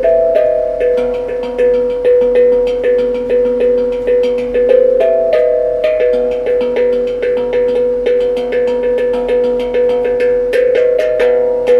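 A tuned, ringing percussion instrument struck with sticks, playing a fast, steady rhythmic pattern on a few repeating pitches, each note sharp at the attack and ringing on.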